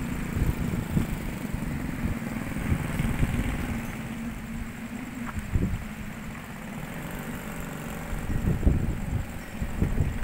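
Strong gusty wind buffeting the microphone with irregular low thumps, over a steady low engine hum that fades after about four seconds.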